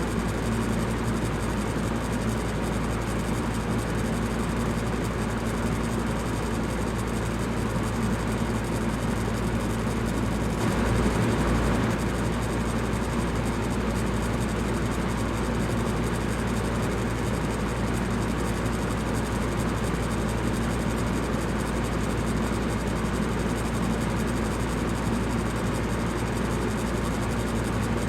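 Electric fan running steadily: an even rushing noise with a low motor hum beneath, briefly a little louder about eleven seconds in.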